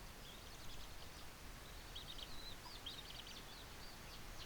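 Faint, high-pitched bird chirps in quick runs, over a steady background noise.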